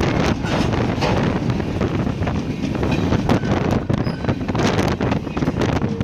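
A train rumbling past with steady rail noise and scattered clicks, with wind buffeting the microphone.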